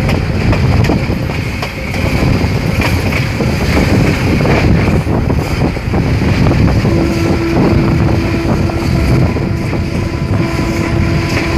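Sri Lanka Railways passenger train running, heard from an open carriage window: steady running noise of the coach on the rails, with wind buffeting the microphone. A steady tone joins about seven seconds in and holds.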